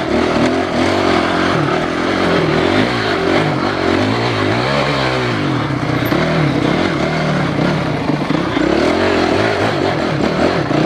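Enduro motorcycle engine being ridden, the throttle opened and closed again and again so the pitch keeps rising and falling.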